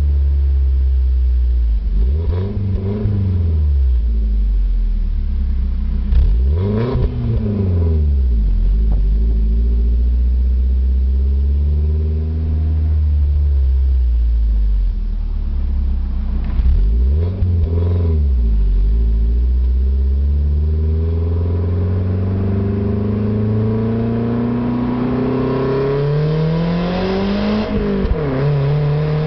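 BMW Z3's M44B19 1.9-litre four-cylinder engine through an aftermarket OBX exhaust, the revs rising and falling several times, then climbing steadily for several seconds before dropping suddenly near the end.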